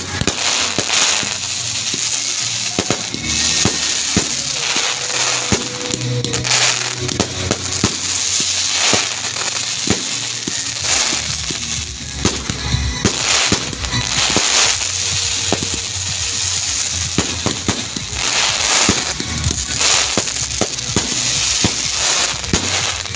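Fireworks going off in quick succession: a dense run of bangs and crackling pops.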